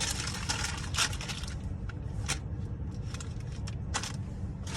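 Car engine idling, heard as a low steady hum from inside the car, with a few short clicks and rustles, the loudest about a second in and about four seconds in.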